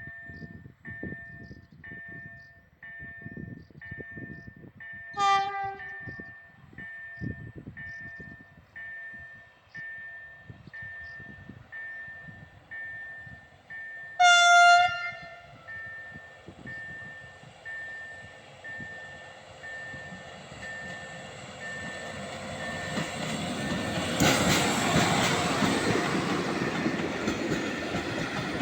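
A level crossing warning signal rings a steady two-tone beep about once a second while a train sounds its horn, briefly about five seconds in and with a louder, longer blast about fourteen seconds in. In the last third the train's rumble builds and it passes close by with wheel clatter, drowning out the signal.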